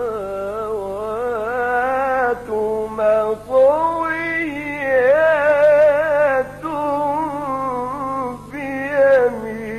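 A male Quran reciter's voice in melodic chanted recitation: long held notes with wavering ornaments, sung in several phrases with brief pauses between them.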